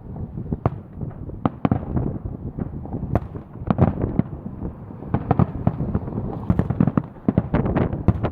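Fireworks bursting in rapid irregular cracks and bangs, coming thicker in the second half, over low wind buffeting on the microphone.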